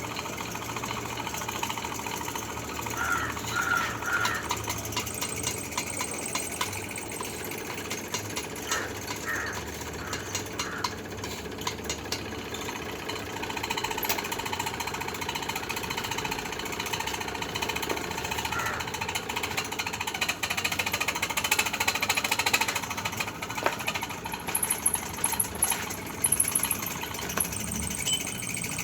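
Electric arc welding on a steel foundation bolt: a steady crackling buzz from the arc, thick with rapid clicks.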